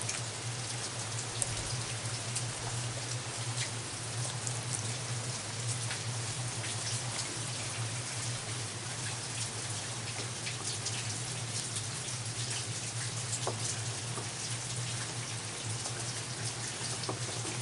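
Heavy rain falling steadily, with many sharp individual drop hits close by and a steady low hum underneath.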